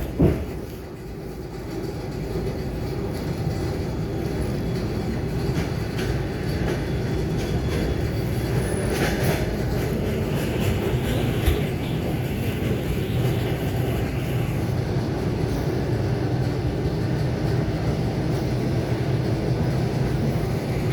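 Steady rumble of an ET2 electric multiple unit under way, heard inside the carriage. The sound builds over the first few seconds and then holds level, with a few short knocks.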